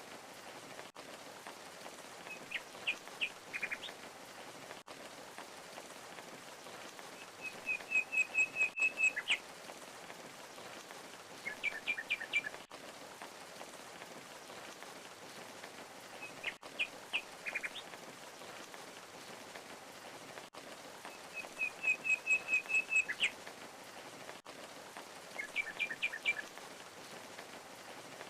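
Steady rush of a waterfall under songbird calls: short clusters of chirps and a fast trill, recurring every few seconds.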